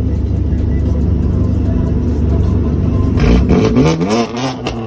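High-performance car engine and road noise at a steady cruise, then about three seconds in the engine revs up hard, its pitch rising, with a quick run of exhaust pops and crackles.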